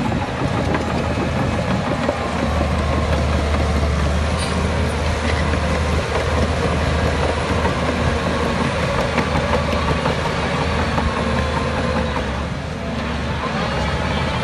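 Heavy diesel engine of earthmoving machinery running steadily with a deep, even rumble, dipping briefly in loudness near the end.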